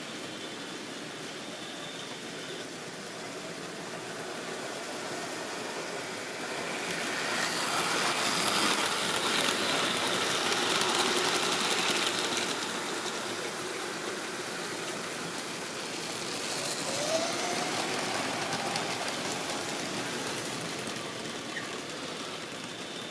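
Model railway train running on its track, the motor whirring and the wheels clattering over the rail joints. It grows louder as it passes close by, fades, then comes close again, with a short rising squeal about two-thirds of the way through.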